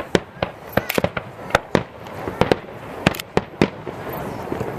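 Aerial fireworks display: about a dozen sharp bangs and cracks in quick, irregular succession as shells burst.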